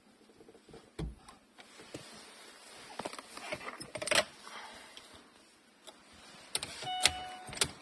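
Scattered clicks and knocks of hands fitting electrical connectors and parts of a car's sunroof mechanism, with a short squeak near the end.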